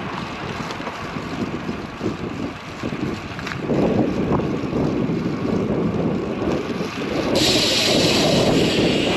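Wind buffeting the microphone of a camera on a moving road bicycle, gusting harder about four seconds in. A steady hiss joins near the end.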